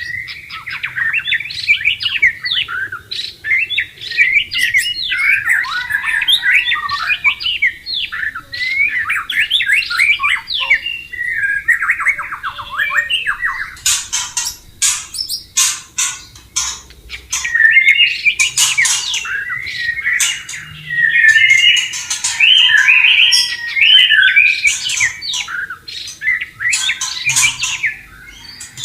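White-rumped shama singing a long, varied song of quick whistled phrases, broken by clusters of sharp, harsh notes.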